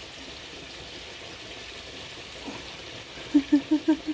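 Chicken frying in bacon grease in a pan, a steady sizzle. Near the end comes a quick run of about six short pitched sounds, louder than the sizzle.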